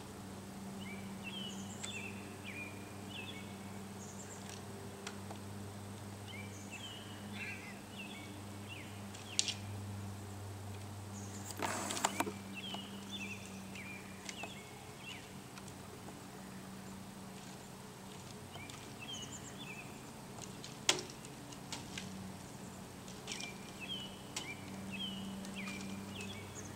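Outdoor ambience with a bird singing short phrases of quick chirps, repeated every several seconds, over a steady low hum. A few sharp clicks and one brief scraping burst a little before halfway stand out as the loudest sounds.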